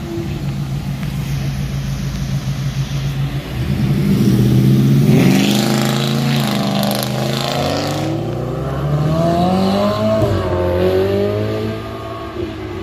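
Car engine running low and steady, then revved hard as the car accelerates away: the pitch climbs for several seconds, drops sharply once at a gear change about ten seconds in, and climbs again.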